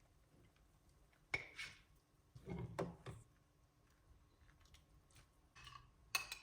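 Kitchenware being handled: a few light clinks and knocks, a sharp ringing clink about a second in, a short cluster of knocks around three seconds, and another sharp clink near the end.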